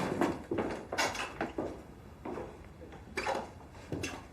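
Scattered knocks and light clatter of objects being handled in a small room, a few separate strokes rather than a steady sound.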